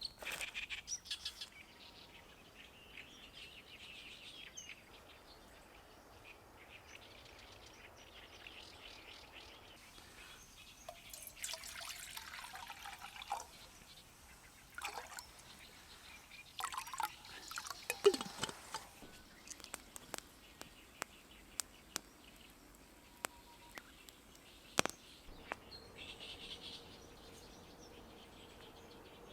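Birds chirping in woodland, with scattered sharp clicks and knocks and two louder noisy bursts of handling about a third and two thirds of the way through.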